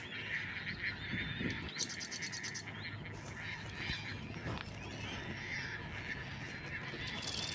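Wild birds calling and chirping, with a short rapid high trill about two seconds in.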